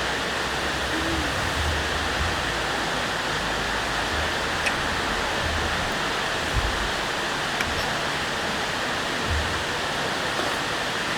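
Mountain valley stream rushing steadily over rocks, an even continuous water noise, with a few faint low knocks in the middle.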